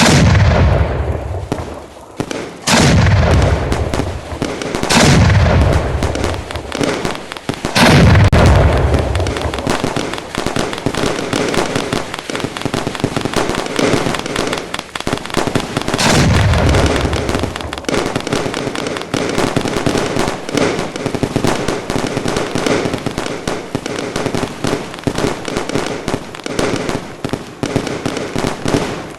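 Fireworks going off: several single heavy booms of bursting shells, each trailing off, about every two to three seconds at first and once more about halfway. From about ten seconds in, a dense, continuous crackle of many small bursts.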